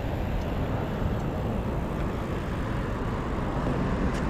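Steady road noise with a low wind rumble on the microphone while cycling along a road with motor traffic.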